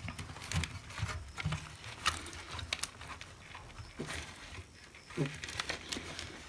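Scattered small clicks and taps of plastic parts and wiring being handled while a hot air gun handle is put back together.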